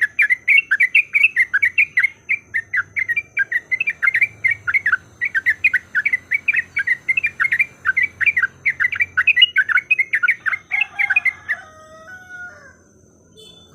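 Yellow-vented bulbul (trucukan) calling in a fast run of loud chattering 'cuk cuk' notes, several a second, the excited fighting-challenge call used as a lure. The run stops near the end, and a few lower, slurred whistled notes follow.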